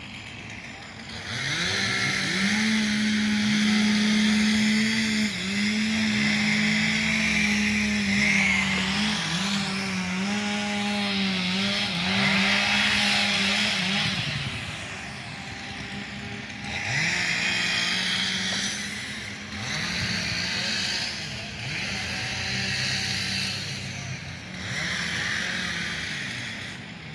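Chainsaw engine revving while cutting, its pitch dropping under load and climbing back again and again. It runs loud for about a dozen seconds, then in shorter, quieter revs.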